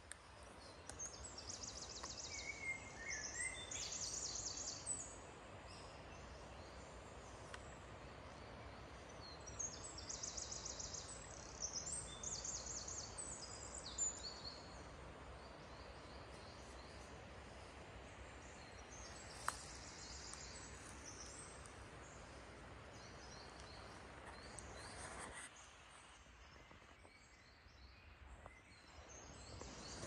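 Forest birds chirping in bursts of rapid, high-pitched trills and repeated notes over a steady hiss of background noise, which falls away near the end.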